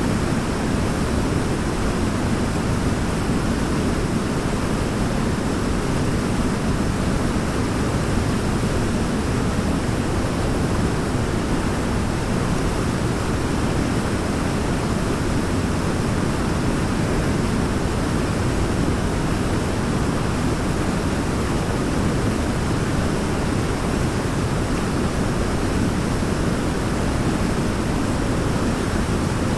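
Waterfall: a steady, unbroken rush of falling water, deep and full, without change.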